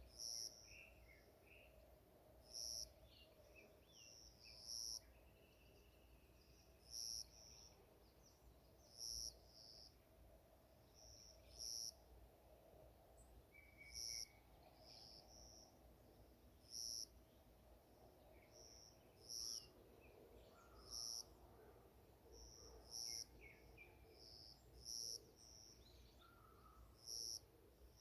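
Faint forest birdsong: a short, high-pitched call repeats evenly about every two seconds, with scattered softer chirps and twitters from other birds.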